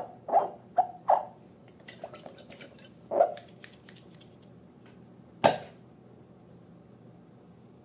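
Slime being squeezed and worked by hand: short wet squelches and sticky clicks, a cluster of small pops around two to three seconds in, and one sharper snap about five and a half seconds in, then it goes still.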